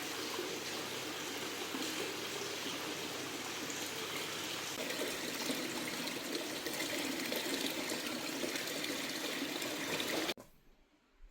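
Water pouring and trickling steadily, cutting off abruptly about ten seconds in.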